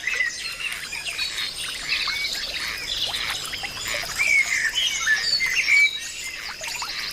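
Several birds chirping and calling over one another in a busy, continuous chorus of short, quick notes, with a faint steady high tone underneath.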